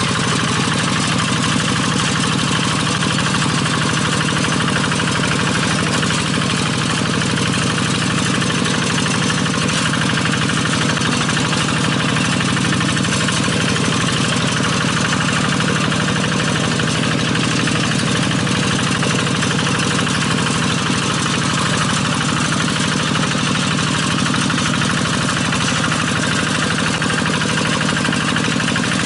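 Paddy-field hand tractor's single-cylinder diesel engine running steadily at idle, with an even, rapid firing beat.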